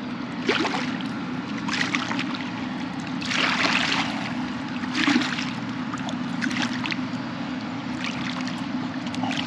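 Water splashing and slapping at a canoe, a wash about every second or so, the longest about three seconds in, over a steady low hum.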